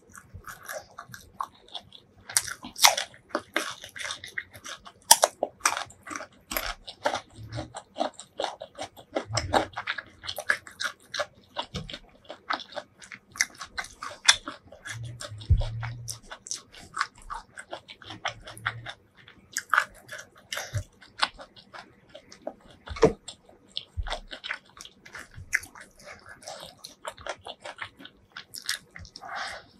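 Close-miked ASMR eating of chicken curry, egg curry and spiced rice eaten by hand: steady wet chewing and lip smacking made of many quick sharp clicks, mixed with the squish of curry-soaked rice being worked by the fingers.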